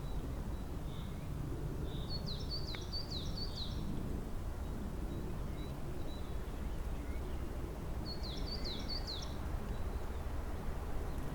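A songbird singing a short phrase of quick, high, falling notes, twice, with a few faint short chirps between the phrases, over a steady low outdoor rumble.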